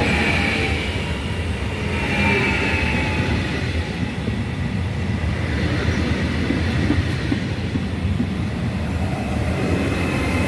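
Train rolling on the rails: a steady loud rumble, with high wheel squeals near the start and again about two seconds in.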